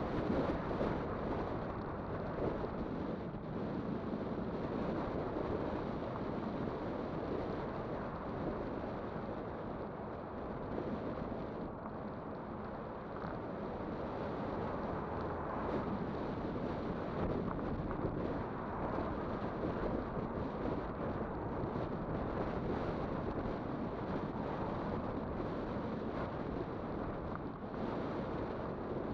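Wind rushing over the microphone, with tyre and road rumble, from a moving Kugoo Kirin V5 electric bike; a steady noise that carries on unbroken.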